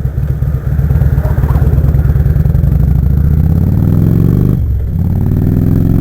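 Harley-Davidson Road King Classic's V-twin engine accelerating, its pitch rising through a gear. Near the end it dips briefly for a gear change, then climbs again.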